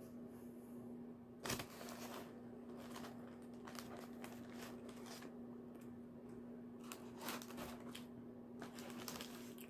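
Close-up chewing of a salami and pepperoni sandwich, with crackly, crinkly mouth noises coming in irregular clusters. A steady low hum runs underneath.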